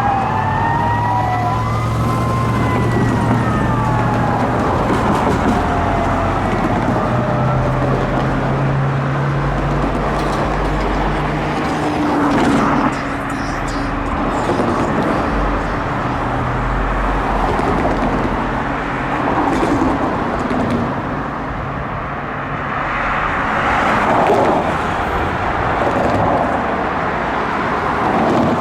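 Fire apparatus electronic sirens wailing, fading out in the first few seconds, followed by the steady rumble of heavy diesel engines and road traffic.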